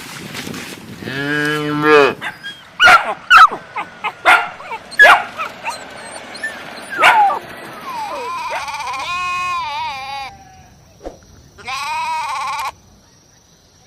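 Sheep and goats bleating: a low wavering bleat about a second in, a run of short sharp cries in the middle, then two higher wavering bleats near the end.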